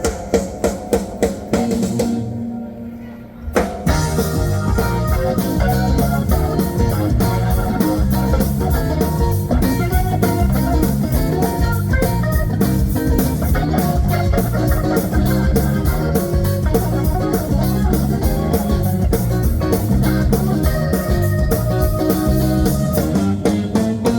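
Live blues band playing, with guitar, bass and drum kit. About two seconds in the band drops out to a single held note, then the full band comes back in with a steady beat.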